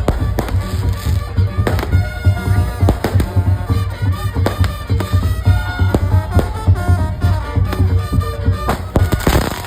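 Madurese tong-tong percussion music: heavy, driving drum beats and rapid sharp knocking, with a reedy wind-instrument melody over them.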